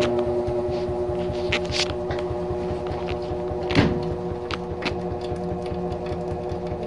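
Whirlpool WTW5010LW top-load washer starting its spin: the motor and drain pump run with a steady hum and a fast low pulsing as the basket turns, while water drains out. A few sharp clicks and splashes come through, the loudest a little before halfway.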